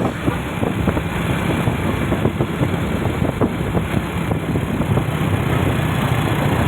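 A motor vehicle's engine running steadily while driving along a road, with a constant low hum under road and wind noise.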